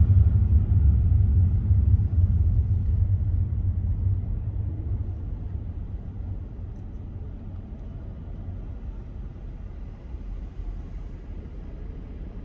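Low rumble of a car driving on city roads, loud at first and fading steadily over the middle of the stretch.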